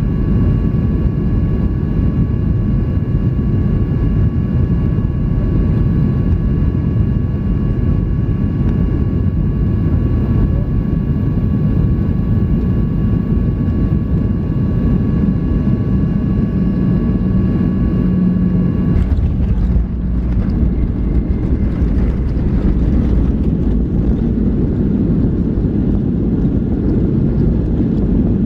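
Boeing 737-800 cabin noise: a steady rumble of engines and airflow with a few thin whining tones over it. About 19 seconds in, the tones cut off and the rumble turns rougher and more uneven.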